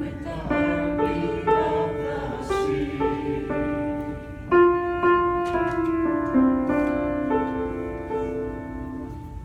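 Slow offertory music on piano, chords struck and held, closing with a final chord that fades out near the end.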